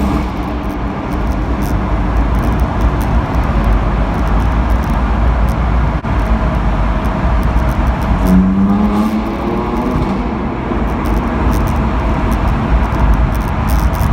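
BMW M4 F82's twin-turbo straight-six running through an Akrapovic Evolution exhaust at speed, with steady road noise underneath. About eight seconds in the engine note climbs once in a short hard pull, then settles back to a steady run.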